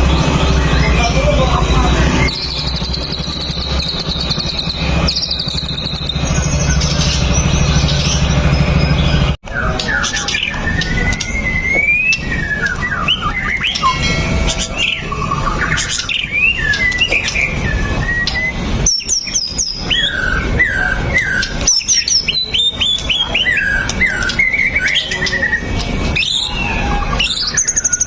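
White-rumped shama (murai batu) singing a long, varied song of fast whistles, rising and falling sweeps and trills. For the first nine seconds or so it sits over a loud low hum, then the recording cuts to a cleaner stretch of the song.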